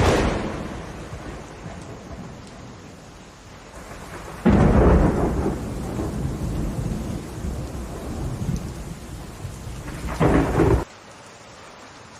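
Thunderstorm: a sharp thunderclap right at the start that dies away, then a long rolling peal of thunder starting about four seconds in, with another crack near its end, over steady rain. The thunder cuts off suddenly near the end, leaving only the hiss of rain.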